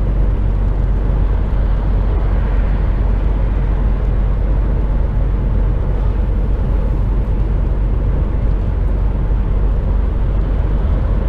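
Steady drone of an HGV's diesel engine and road noise, heard from inside the truck's cab, deep and unchanging.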